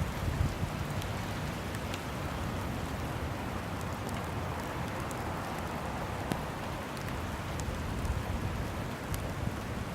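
Steady rain falling, an even hiss with scattered faint drip ticks.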